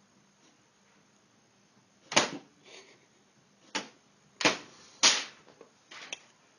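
Four sharp knocks or taps, the first about two seconds in and the rest following about a second apart, with a few fainter taps between them.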